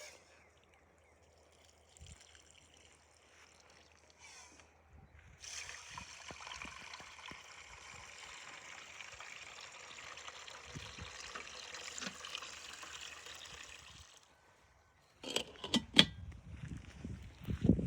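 Water pouring in a steady trickle for about nine seconds, starting about five seconds in and stopping abruptly, followed by a few sharp knocks near the end.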